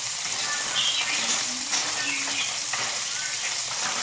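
Food sizzling as it fries in a pan on a gas stove, with a steady hiss and a few sharp scrapes and clicks as a utensil stirs it.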